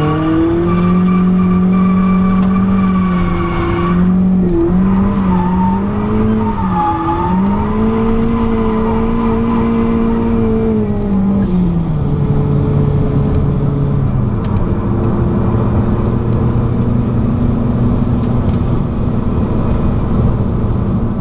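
Turbocharged 1990 Mazda MX-5's four-cylinder engine heard from inside the cabin, revved up and held high while the car drifts with its tyres sliding, the revs dipping briefly twice. About half way through the revs fall and the engine settles to a lower, steady note as the car drives straight.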